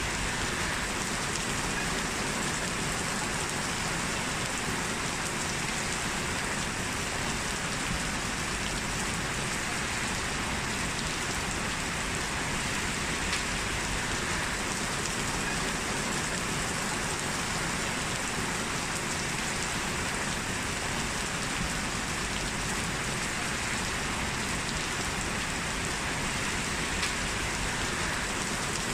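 Steady rain falling, an even dense hiss of raindrops with no thunder or other sounds standing out.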